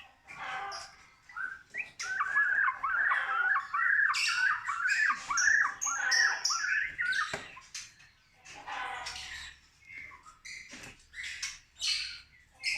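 A white-rumped shama (murai batu) giving a fast run of harsh, repeated up-and-down calls, about three to four a second, for roughly five seconds, then scattered shorter calls.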